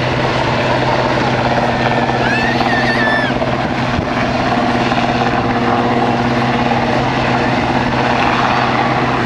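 Helicopter hovering overhead, its rotor and turbine running steadily and loudly, with a brief high warbling chirp about two seconds in.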